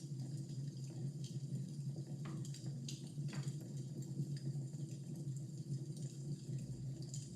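Fire burning in a fireplace, crackling with scattered small snaps over a steady low hum.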